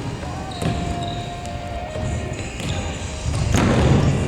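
Futsal ball being kicked and bouncing on a gym floor, a few sharp thuds with the loudest near the end, echoing in a large hall.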